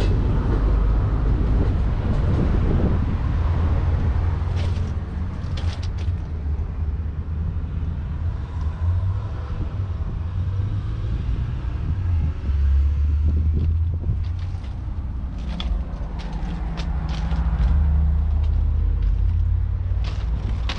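Case IH 844 XL Plus tractor's 4.4-litre four-cylinder diesel engine running with a deep rumble that swells and eases a few times, with a few short clicks over it.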